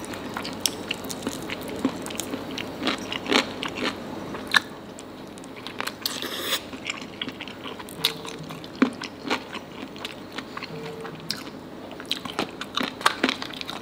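Close-miked eating of nasi Padang by hand: chewing and biting with many short wet mouth clicks, and a longer, noisier crunch about six seconds in.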